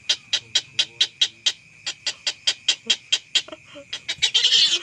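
A bird giving a rapid, even run of short clicking calls, about six or seven a second, ending in a louder harsh rasp near the end.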